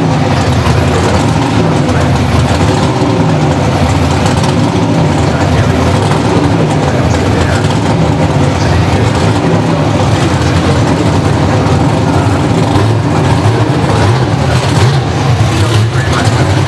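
Pro Stock drag cars' V8 engines running loud and steady, with a dense low rumble throughout.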